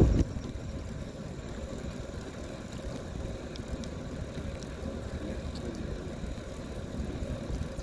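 Steady low rumble of wind on the microphone and tyre noise from a bicycle rolling along a park path.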